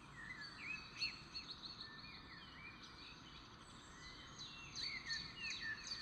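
Birds chirping in short, quick notes that sweep up and down, over a steady low hiss. The chirping is busiest in the first second and again near the end.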